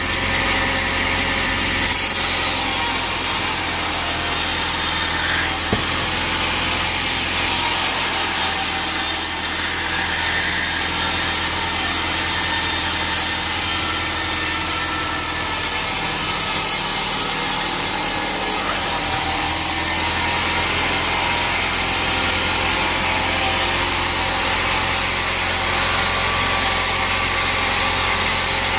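Sawmill band saw cutting through a log: a steady hiss of the blade in the wood over the low hum of the saw's motor. The high hiss eases about eighteen seconds in.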